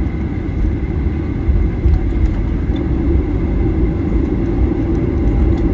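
Boeing 737-800 heard from inside the cabin while rolling on the ground after landing: a steady, loud low rumble of engines and wheels, with a faint steady high whine over it.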